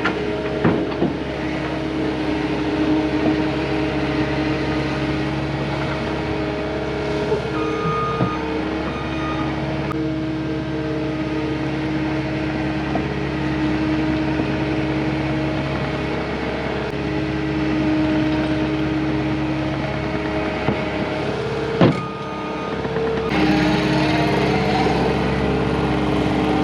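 Cat 259D compact track loader's diesel engine running steadily under work, its pitch shifting now and then, with a few sharp clanks, the loudest near the end.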